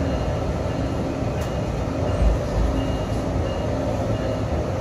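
Inside a SMART diesel multiple-unit railcar running along the track: a steady low rumble of wheels and running gear in the passenger cabin, with one louder low thump a little past two seconds in.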